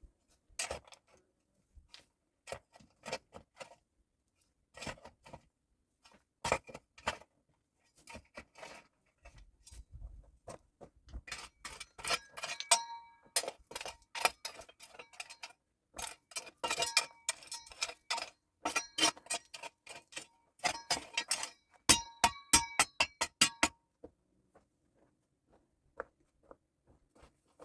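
A series of light clinks of hard tableware, many ringing briefly at the same pitch, as cups or glasses and utensils are handled. The clinks are sparse at first, come in quick runs through the middle, and stop a few seconds before the end.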